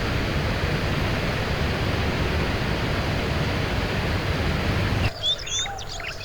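Steady rushing noise of water that cuts off abruptly about five seconds in. It is replaced by quieter birds chirping in short, quick calls.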